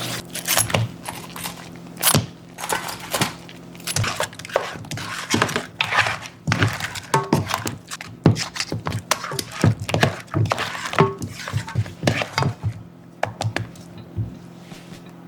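Dishes and utensils knocking and clinking in a kitchen: a quick, irregular string of clicks and knocks, a few with short ringing clinks.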